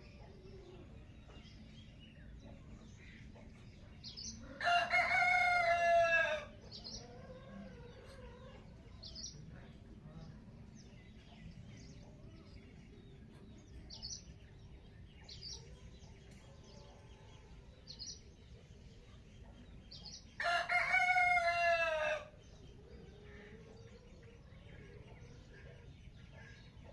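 A rooster crowing twice, each crow about two seconds long and falling in pitch at the end, the first about five seconds in and the second about twenty seconds in. Short, faint chirps from small birds are heard between the crows.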